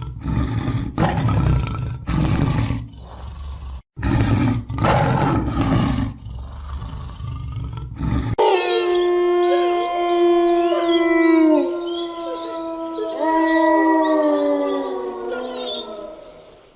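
A big cat growling and roaring in a run of loud, rough bursts, about one a second, for roughly the first eight seconds. Then it cuts off suddenly and music takes over, with long held notes that slide in pitch.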